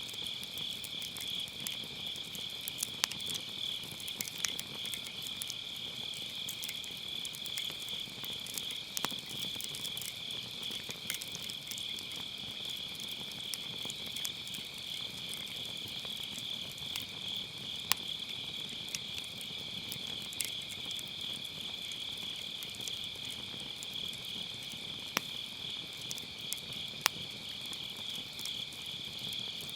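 Wood fire crackling in a fire pit, with scattered small ticks and a few sharper pops, under a steady high-pitched chorus of autumn grass insects trilling.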